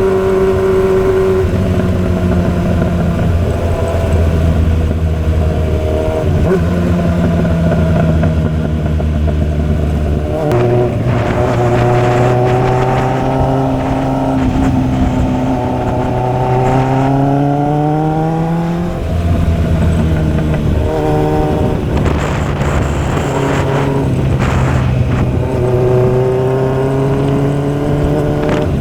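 Motorcycle engine under way, its revs holding steady, jumping between levels as gears change, then climbing steadily for several seconds under acceleration before dropping sharply at a gear change about two-thirds of the way through.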